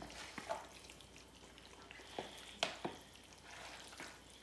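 Wet squelching and sticky clicks of raw chicken pieces being massaged in marinade with gloved hands: faint, with a few sharper squishes scattered through.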